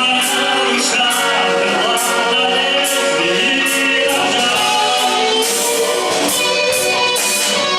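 A live band playing a song, with singing over steady instruments and drums keeping time with regular cymbal strikes.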